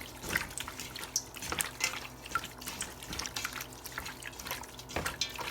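Wet squishing and squelching of seasoned raw chicken being mixed and massaged by hand, in irregular short smacks.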